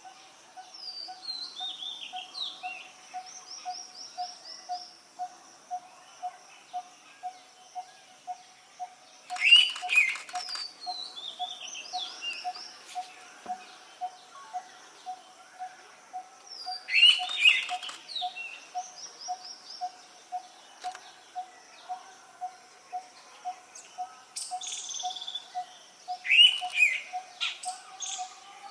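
Indian pitta giving its loud two-note whistled call three times, roughly eight seconds apart. Between the calls, other birds' fainter descending trills and a steady low pulsing note, about two or three beats a second, carry on.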